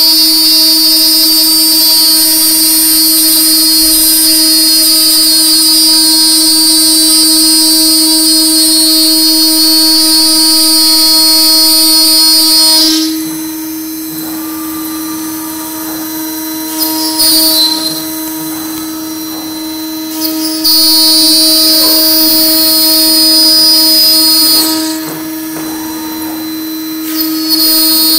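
CNC router spindle running with a steady whine while the bit cuts MDF with a loud hiss. About halfway through, the cutting hiss stops and only the quieter spinning tone remains for several seconds, with a few brief knocks. The cut then resumes, pauses again briefly, and starts once more near the end.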